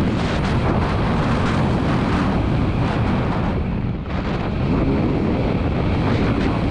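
2022 KTM 300 TPI two-stroke single-cylinder motocross engine running under throttle, heard with heavy wind noise on the action camera's microphone. The sound drops briefly about four seconds in, as the throttle is shut off, then picks back up.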